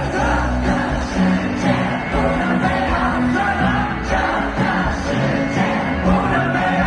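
Live band music played loud over a concert sound system, with singing.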